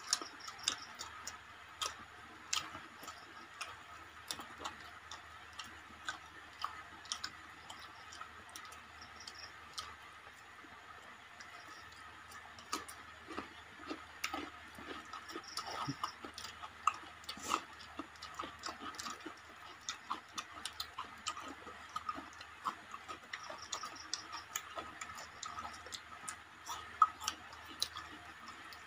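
Close-up eating sounds of people chewing rice and fried fish by hand: irregular small mouth clicks and lip smacks, a few louder, over a faint steady hum.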